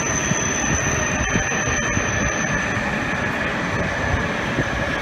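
Shinkansen train moving slowly along the platform: a steady rumble with a faint, steady high whine.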